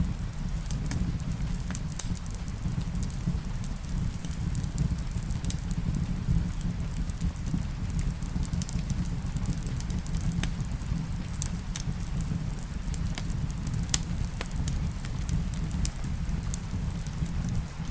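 Wood fire crackling in a fireplace, with scattered sharp pops, a loud one about 14 seconds in, over a steady low rumble and rain.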